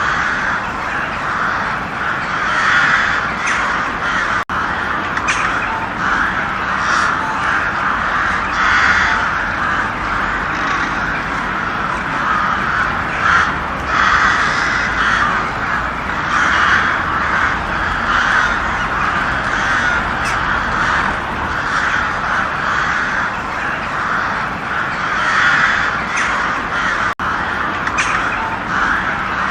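A flock of crows cawing, many calls overlapping in a continuous chorus.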